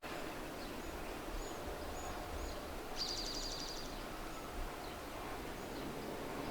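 Songbirds calling over steady outdoor background noise: several short, thin high chirps, then a rapid trill of repeated high notes lasting about a second, starting about three seconds in.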